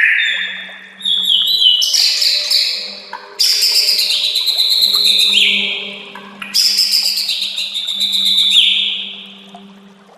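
White-rumped shama (murai batu) singing: a run of loud, long phrases of rapid trilling and whistled notes, one after another with short breaks, over a faint steady low hum.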